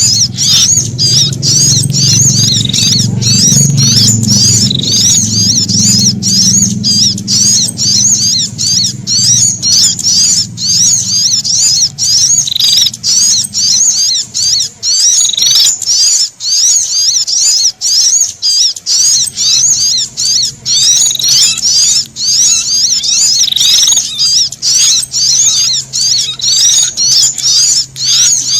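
Rapid, unbroken high-pitched chattering of distress and alarm calls from a sunbird mixed with prinia calls, the frightened 'kejepit' cries used as a bird lure. A low hum runs underneath, dropping out for a few seconds around the middle.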